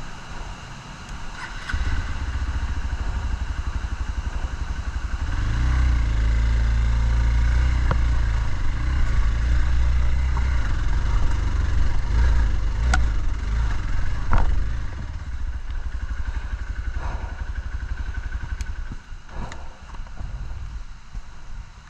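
Off-road motorcycle engine running, building up about two seconds in and pulling harder from about five seconds, then easing off after about fifteen seconds. A few sharp knocks sound over it.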